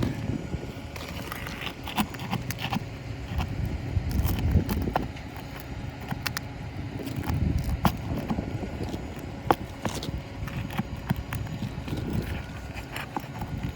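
Scattered sharp clicks and taps of hand tools prying roofing nails out of asphalt shingles, over a steady low rumble.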